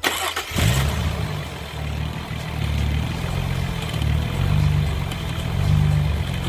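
Car engine cranked by the starter and catching about half a second in, then running at idle with its note swelling and easing. This is the first start after heat-damaged engine parts were replaced and the battery was reconnected.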